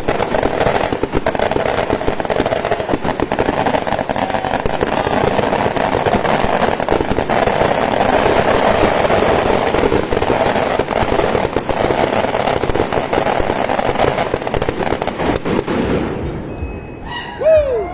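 Firecrackers going off in a long, dense run of rapid crackling that stops abruptly about two seconds before the end. A brief sliding whistle-like sound follows.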